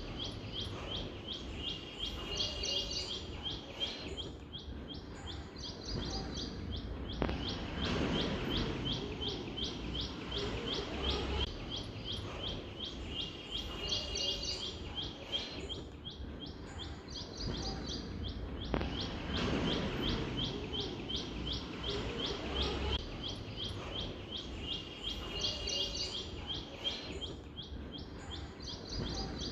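Birds chirping in rapid runs of short, high chirps over a low background hiss. The same stretch repeats about every eleven and a half seconds, like a looped birdsong recording.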